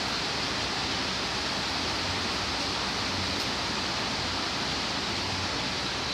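Torrential rain pouring down in strong wind, a dense, steady hiss that does not let up.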